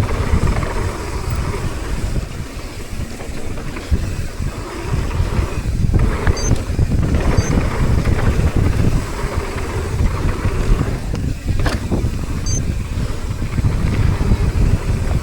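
Mountain bike descending a rough downhill trail: wind rushing over the microphone and the tyres rumbling on dirt, with a sharp knock about twelve seconds in.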